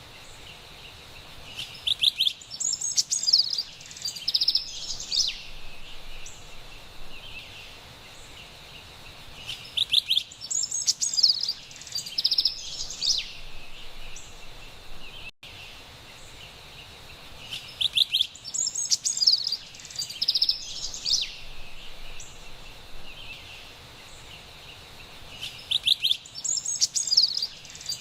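Carolina wren songs: a bright burst of rapid chirping phrases about three seconds long, repeated about every eight seconds, four times, over a steady high background hiss.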